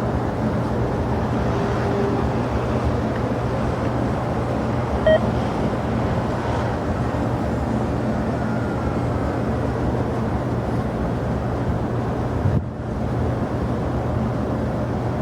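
Steady roar of jet aircraft engines around the airport, with a constant low hum and a short blip about five seconds in.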